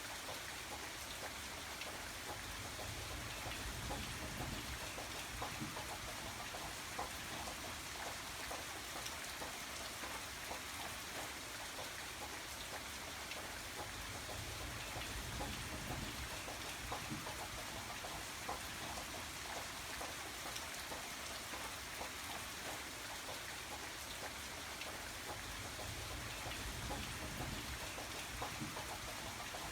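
Steady rain falling, a constant hiss with many separate drops ticking on a surface. A low rumble swells and fades every few seconds.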